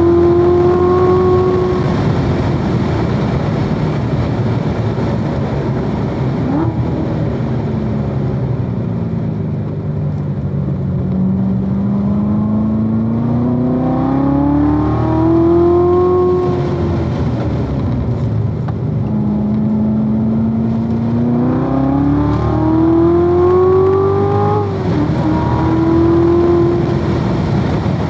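Supercharged 6.2-litre LT4 V8 of a 2016 Corvette Z06 driven hard on track. The engine note makes two long climbs through the revs, falls away between them as the car slows, and drops suddenly at an upshift a few seconds before the end, over a steady rushing noise.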